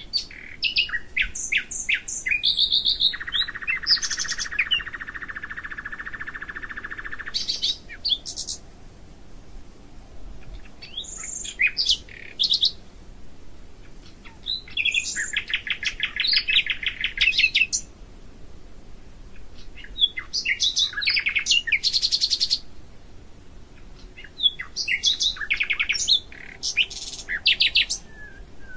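A songbird singing in bursts of rapid chirps and trills, each a few seconds long with pauses between, including a long, even, buzzy trill lasting about four seconds near the start.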